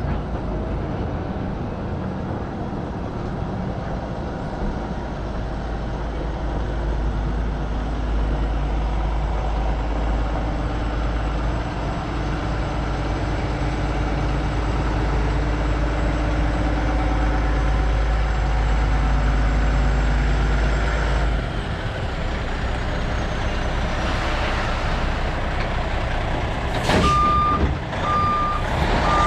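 Heavy diesel dump truck running steadily under load, its low rumble dropping off about three quarters of the way through. Near the end there is a short hiss of air, and then a backup alarm starts beeping steadily.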